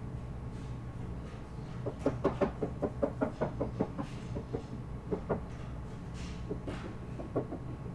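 Light taps of a child's toy hammer shaping a clay model blade on a kitchen table: a quick run of about six taps a second for two seconds, then a few scattered taps.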